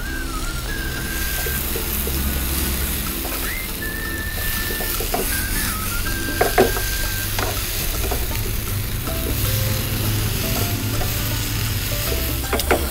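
Leeks and dried sprats sizzling as they are stir-fried in a pan, stirred with a spatula, with a couple of sharp taps about halfway.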